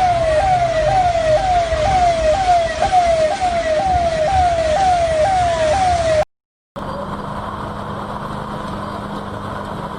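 Emergency vehicle siren wailing in a fast cycle, about twice a second, each cycle jumping up in pitch and then falling. It cuts off abruptly about six seconds in. After a brief silence a steady hum of street noise follows.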